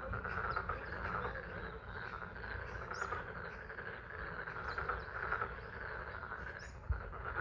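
A dense chorus of many frogs calling continuously at a pond, over the steady hiss of falling rain. A few short, high bird chirps sound now and then above it, and there is a single low knock near the end.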